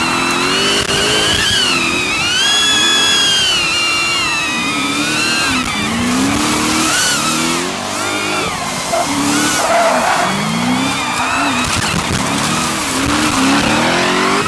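Drift car engine revving up and down over and over through a slide, with tires squealing.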